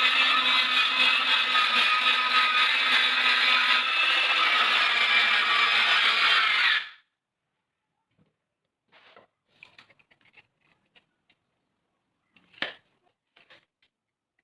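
Power tool running as it works wood: a dense, steady noise with a whine over it. It cuts off suddenly about seven seconds in, followed by faint light clicks and knocks, one sharper click near the end.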